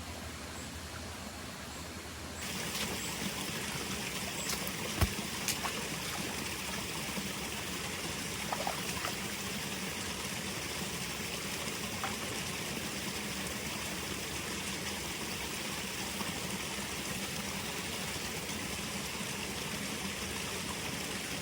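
A quieter steady hiss for the first couple of seconds, then a stream of running water, flowing steadily. A couple of sharp clicks come about five seconds in.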